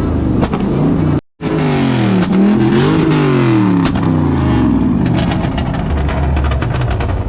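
Car engines revving hard, the pitch repeatedly climbing and falling, with a rapid run of crackles in the second half. The sound cuts out briefly just over a second in.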